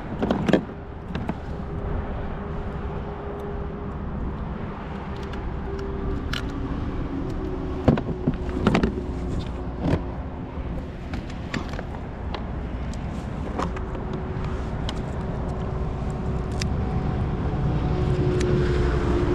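Steady low rumble with a faint held hum, broken by a few short sharp knocks, the clearest about eight to ten seconds in.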